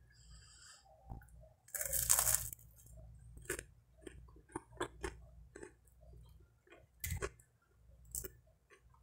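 Close-miked chewing of buttered bread: soft crunches and mouth sounds at irregular intervals, with a longer, louder burst of noise about two seconds in.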